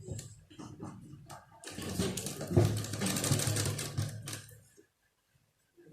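Sewing machine stitching fabric in a fast run of about three seconds, starting about a second and a half in and stopping suddenly. A few light clicks of handling come before it.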